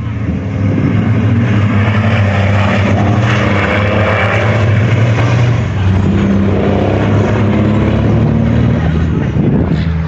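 Heavy truck diesel engines running loudly, their pitch rising and falling as they accelerate, then fading a little near the end.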